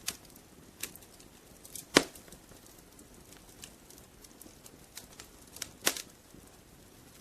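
Wood fire crackling in a fireplace: scattered sharp pops and snaps over a faint hiss, with one loud pop about two seconds in and a quick double pop near the end.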